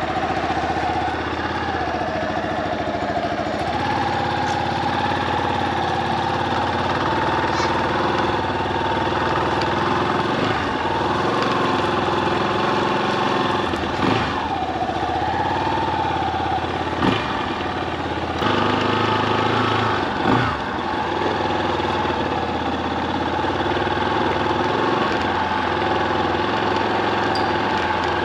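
Yamaha Serow 250's single-cylinder engine running, its pitch dipping and rising with the throttle. A few sharp knocks sound around the middle.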